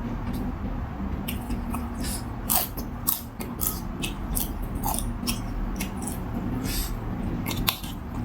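A person chewing and eating noodle soup close to the microphone: a run of sharp, irregular mouth clicks and smacks, a couple louder than the rest, over a steady low hum.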